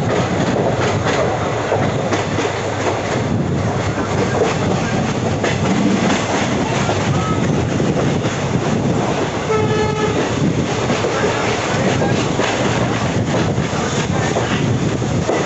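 Passenger train running, its wheels clattering over rail joints under a steady rush of running noise. About ten seconds in, a train horn sounds once, briefly.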